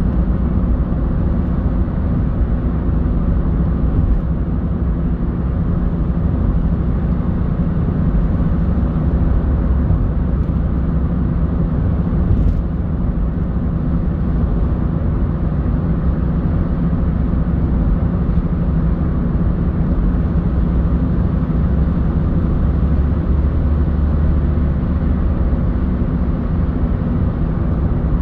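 Car driving on city roads: a steady low rumble of engine and tyre noise, with a single short click about halfway through.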